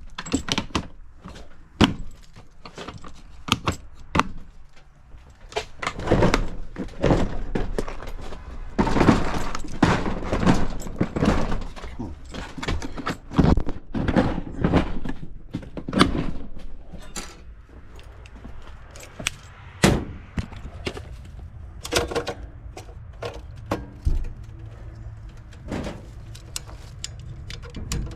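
Irregular knocks, clicks and clatter of hard objects being handled and set down, as circuit breakers and parts are sorted through. A low steady hum sets in during the second half.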